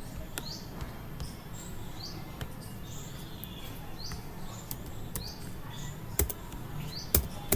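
Birds chirping, short repeated calls over a low steady background hum, with a few sharp computer key clicks near the end.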